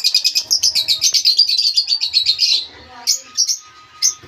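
Lovebirds chattering in a rapid run of high, shrill chirps that stops after about two and a half seconds, followed by a few separate chirps.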